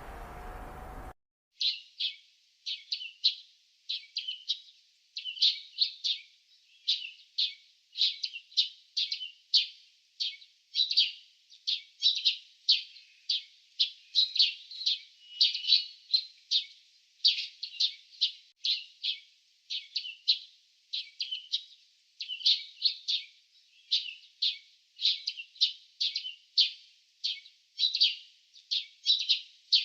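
Small songbirds chirping and tweeting rapidly, a dense run of short high-pitched chirps in quick clusters several times a second, starting abruptly about a second in after a brief steady background hiss.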